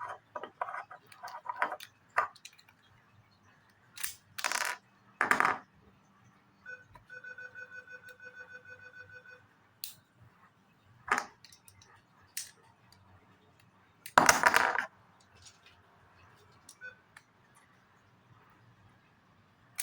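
Plastic Lego pieces clicking and clattering as the toys are moved about, with a few loud noisy bursts. About seven seconds in, a trilling electronic beep runs for a couple of seconds.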